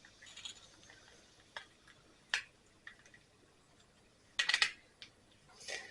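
Scattered light clicks and taps of small carburetor parts being handled during reassembly, with a quick run of several clicks about four and a half seconds in.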